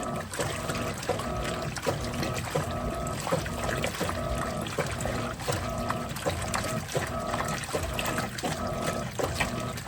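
Electrolux 15 kg top-loading washing machine agitating a load in water: the agitator motor hums in strokes of about half a second, reversing a little more than once a second with a click at each change, over water sloshing in the tub.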